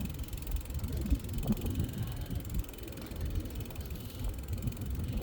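Bicycle riding along a path: a steady low tyre rumble with irregular small knocks and rattles from the ride, and wind on the microphone.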